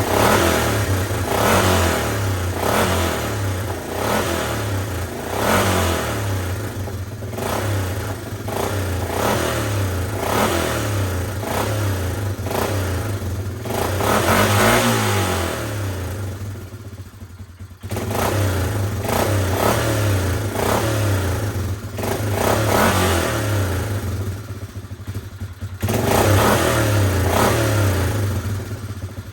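Suzuki Eiger 400 ATV's single-cylinder engine running unevenly, revved up and down by the throttle, nearly dying twice and then picking back up. This is the rough running that the owner puts down to old gas or a dirty carburettor.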